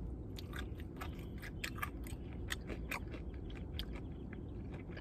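Close-up chewing of crispy fried chicken: a run of small irregular crunches and mouth clicks, without a pause, over a steady low hum.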